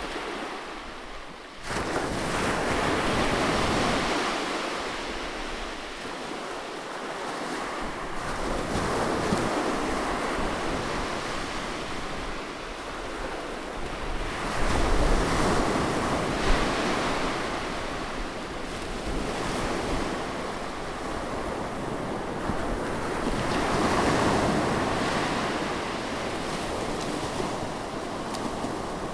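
Ocean surf breaking on a beach, the wash of the waves swelling and ebbing every six to nine seconds, with the first swell coming in sharply about two seconds in. Wind buffets the microphone with a low rumble.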